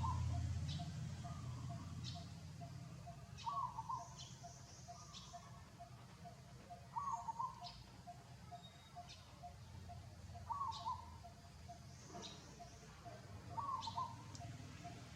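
Short chirping animal calls near 1 kHz, one every three to four seconds, over a faint steady row of rapid ticks.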